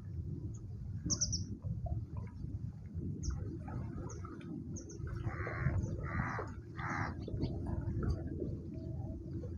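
Birds at a feeder: short, high chirps scattered throughout, with three louder harsh calls in a row about halfway through, over a steady low rumble.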